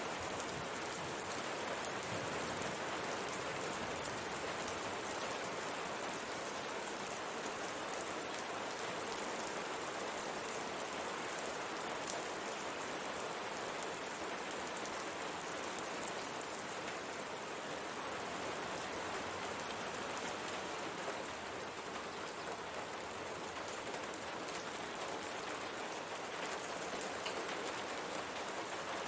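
Steady rain falling on window glass, an even hiss of rain with small individual drop ticks.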